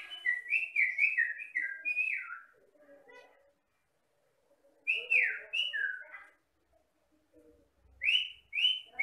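Common myna whistling: a quick run of about seven loud whistled notes, then three notes sliding down in pitch about five seconds in, then two rising whistles near the end, with softer chattering between the phrases.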